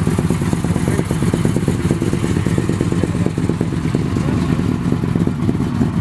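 A vehicle engine running with a steady, low rumble.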